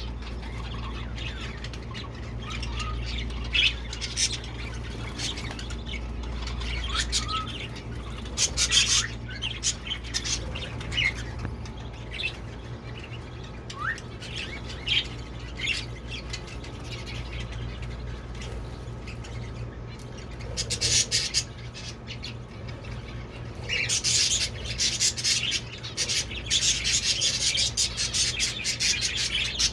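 Kept birds calling: many short, high chirps and squawks, coming in quick clusters that grow busiest in the last few seconds, over a steady low hum.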